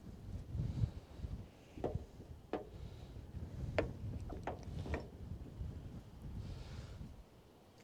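Several short, sharp metal clicks and clinks, spread over a few seconds, from hand tools and engine parts being handled during rocker-arm and push-rod removal on a small-block Chevy V8, over a low rumble.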